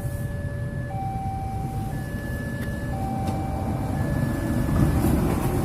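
Railway level-crossing warning alarm sounding a two-tone signal that switches between a lower and a higher pitch about once a second, over a low rumble of road traffic.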